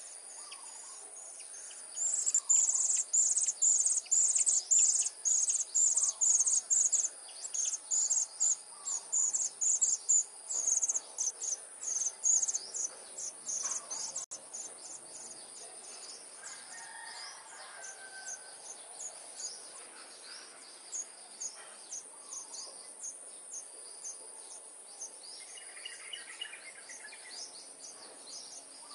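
Cuckoo chick begging: a fast, even run of sharp, high chirps, about two to three a second, loud for about twelve seconds and then fainter. A steady high insect drone runs underneath.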